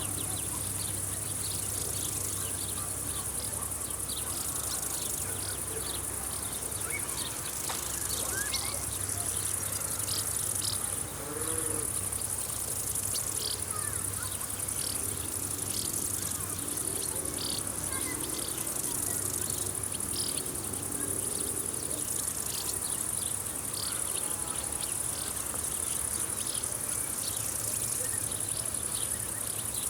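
Field insects chirring: a steady high-pitched trill, with short chirps repeating irregularly over it.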